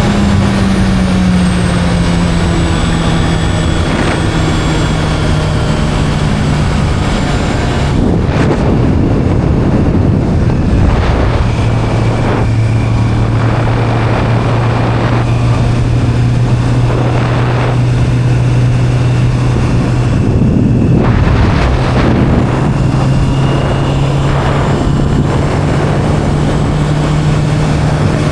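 Sport motorcycle engine running while riding, its steady note easing down over the first few seconds, dropping lower around eleven seconds in and climbing again after about twenty-two seconds, with wind noise on the microphone.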